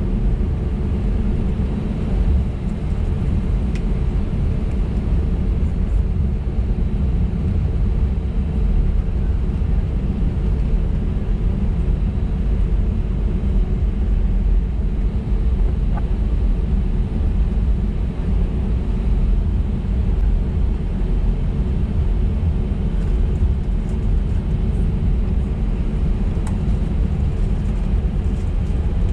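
Cabin noise inside an Airbus A320-251N taxiing: a steady low rumble of its CFM LEAP-1A engines at taxi thrust and the wheels rolling on the taxiway, with a steady hum running through it.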